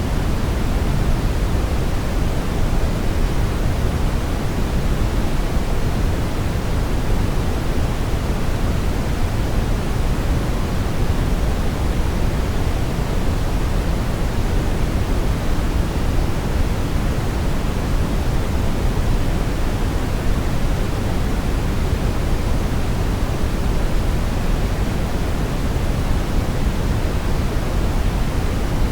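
Synthetic brown noise: a steady, unchanging deep hiss, strongest in the low end and thinning toward the highs.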